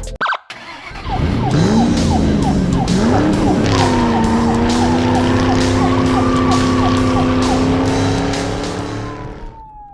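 Car engine sound effect: the engine revs up twice, then holds a steady high-pitched run with a whining note above it, fading out near the end.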